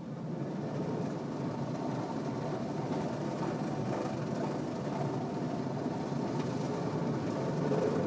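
Automatic car wash machinery running with a steady, even noise that is mostly low and middle in pitch.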